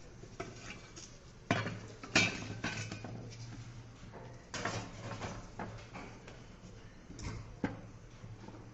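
Metal clanks and clinks, a handful of sharp knocks with short ringing, as tools and metal parts of an electric fan motor are handled during disassembly.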